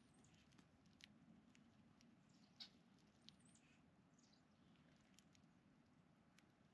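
Faint, scattered sharp ticks of small birds pecking at seed, with two brief high, thin bird call notes, over a low steady hum.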